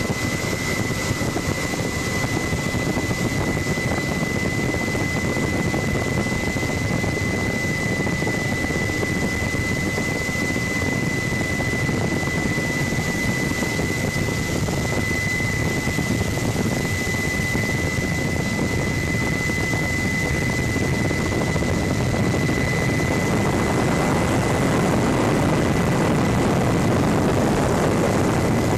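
Helicopter heard from on board: steady, loud rotor and engine noise with a constant high-pitched whine, getting slightly louder near the end.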